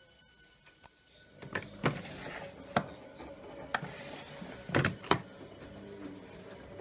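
Siemens WH6149C washing machine starting a boil-wash cycle: a series of sharp clicks and knocks over a rising hiss, then a steady hum.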